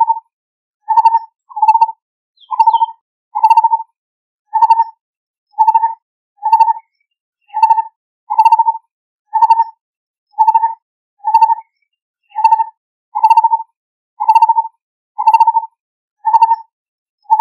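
Lineated barbet calling: a mellow hoot repeated steadily at about one note a second.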